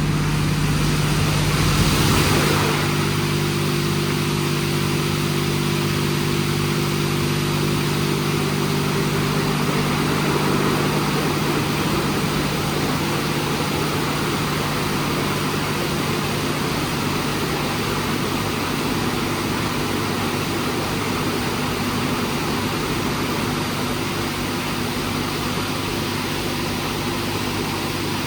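WashTec SoftCare² Pro rollover car wash running: a steady machine hum of its pumps and motors over an even hiss of spraying water. About two seconds in the sound shifts, a deep rumble stopping and a new set of steady tones setting in.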